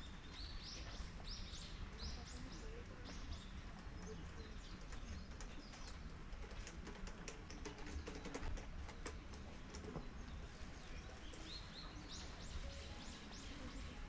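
A small bird chirping in quick series of short, high, upward-flicking notes near the start and again near the end, over steady outdoor background noise, with a run of light clicks in the middle.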